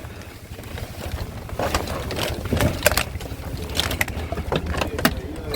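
Scrap wires and cables being pulled and handled, giving irregular knocks, clicks and rattles, over a steady low rumble of wind on the microphone.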